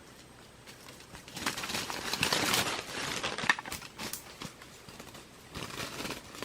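Crackling rustle of dry plant material being handled or moved through, with many small clicks. It is loudest from about one and a half to four seconds in, with a second short burst near the end.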